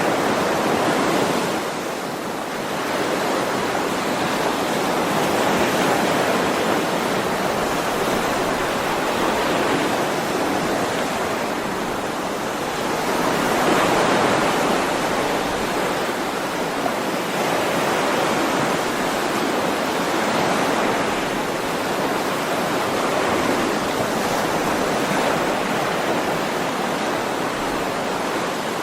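Sea waves washing in on a shore: a continuous surf hiss that swells and eases slowly every few seconds.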